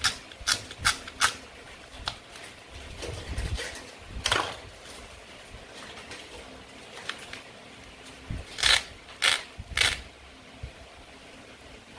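Toy knife cutting through play-food fruit and vegetables, giving short sharp clicks and crunches: four in quick succession at the start, one a few seconds later, and three more close together near the end.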